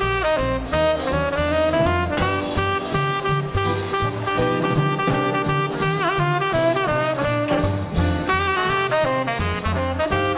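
Small-group swing band playing live: saxophone and trumpet over piano, upright bass and drums, with the bass stepping through notes at an even pace.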